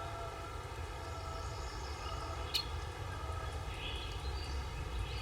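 Forest ambience: faint, scattered bird chirps over a steady low rumble, with one sharp click about halfway through.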